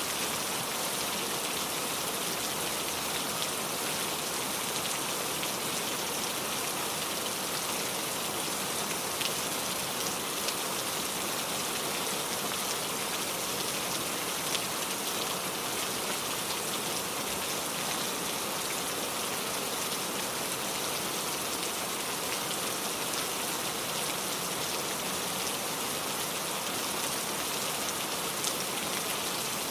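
Steady rainfall: an even hiss of rain on surfaces, with a few sharper drops landing close by.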